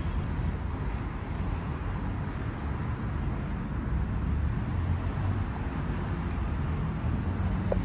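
Classic Pontiac V8 idling with a steady low rumble.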